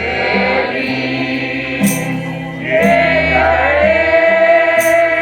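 Christian worship song: voices holding long sung notes over bass notes, with cymbal strikes about two seconds in, near three seconds and near the end.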